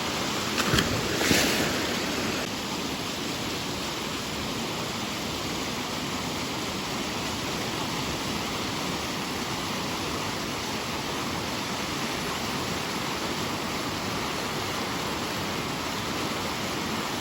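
Creek water rushing steadily down a granite rock slide, with a couple of brief louder noises in the first two seconds.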